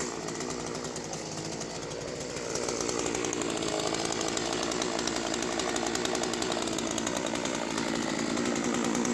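Two-stroke chainsaw running under throttle while cutting wood. It picks up to a steady high rev about two and a half seconds in and holds there.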